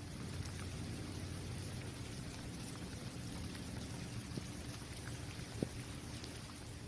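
Steady rainfall on an outdoor basketball court, an even hiss with scattered individual drops ticking close by, one sharper drip about five and a half seconds in.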